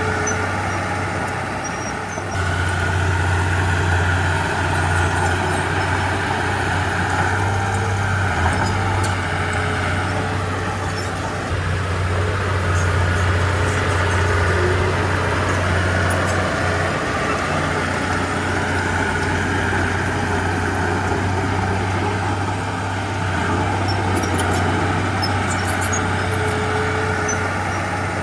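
Heavy diesel engine of earthmoving machinery running steadily under load, with the engine note shifting a few times. Faint high-pitched squeaks come near the start and the end.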